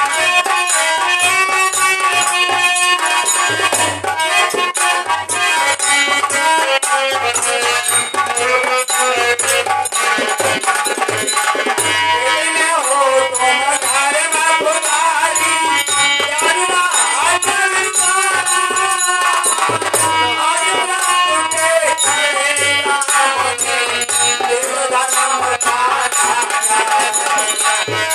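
Instrumental passage of a devotional bhajan: a sustained melody over a recurring drum beat, with shaken rattle percussion.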